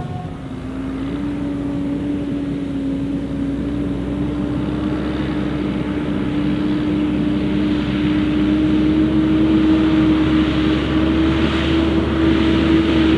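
Heavy farm machinery running under load in a maize field. The diesel engine drone holds one tone that slowly climbs in pitch, and it grows louder through the last few seconds as the machine comes closer.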